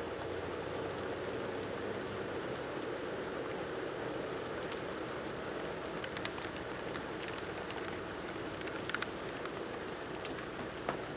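Steady rain falling, with a few sharp ticks of drops landing close by in the second half.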